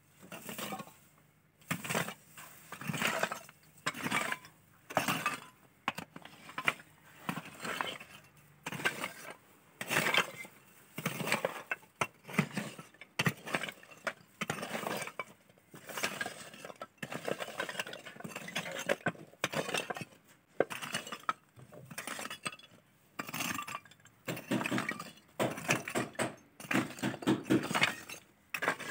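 Hand tools working on ceramic tile in a bathroom renovation: a steady run of scraping, clinking strokes, roughly one a second.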